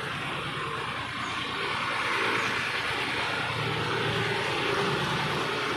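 Tractor diesel engine running steadily, getting a little louder about two seconds in.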